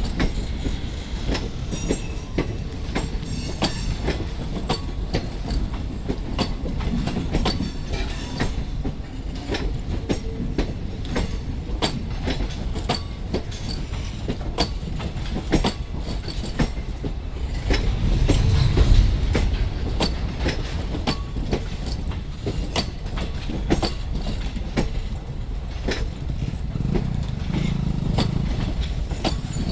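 High-capacity parcel van train running by, its wagon wheels clicking over the rail joints in a steady rumble, with a deeper swell of rumble about two-thirds of the way through.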